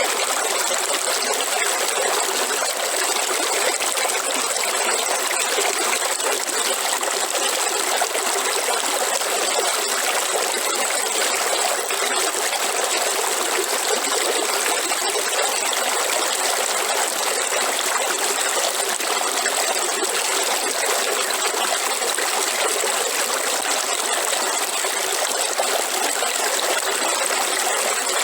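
Waterfall water falling and splashing in a steady, even rush with no breaks.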